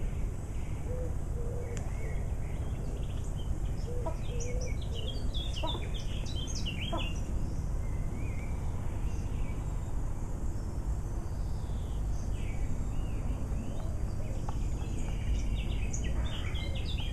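Small birds chirping and singing in quick clusters of high notes, busiest about four to seven seconds in and again near the end, over a steady low rumble of outdoor background noise.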